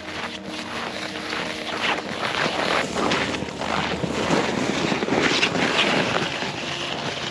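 Crunching footsteps in snow and a loaded pull-sled scraping over the snow, with wind buffeting the microphone; the noise grows louder in the middle.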